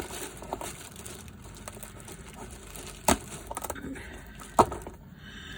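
Handling noise: two sharp knocks about a second and a half apart, with light crinkling between them, as an object is moved into place.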